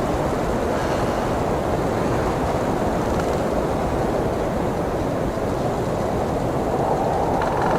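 Strong blizzard wind blowing steadily, a low rushing noise that swells a little near the end.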